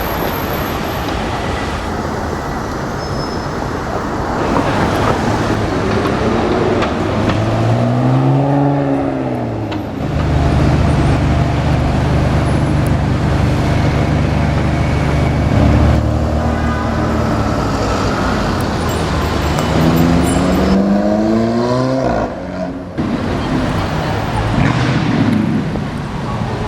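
Cars in street traffic. About eight seconds in, an engine revs up and falls away. A deep, steady engine drone then holds for about ten seconds, and about twenty seconds in an engine accelerates hard, its note climbing quickly.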